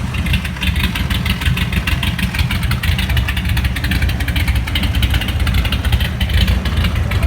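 Jeep CJ7 engine idling steadily just after starting, with a fast, even exhaust pulse.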